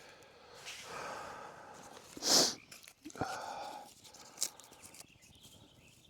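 A person blowing long breaths into a tinder bundle holding a bow-drill ember, coaxing it into flame: several breathy blows one after another, with one short, louder hiss about two seconds in.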